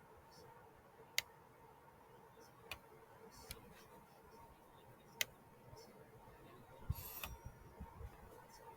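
A few sharp clicks or taps, four spread over about five seconds, then a brief rustle near the end, over a faint steady room hum.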